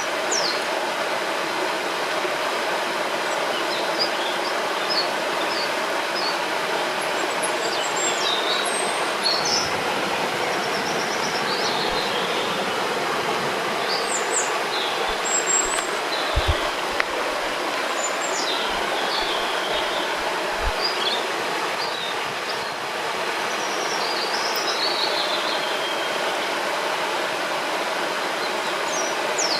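Steady rushing of a river or waterfall, with small birds chirping and trilling on and off above it.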